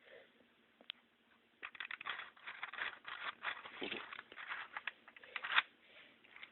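Wooden toy train pieces clicking and clattering as they are handled and moved on wooden track: a single click, then a run of rapid clacks, the loudest near the end.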